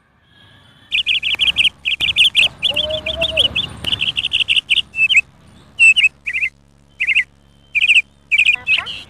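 Bird chirping loudly in quick runs of repeated high notes, with a dense run for several seconds and then shorter separate bursts of chirps.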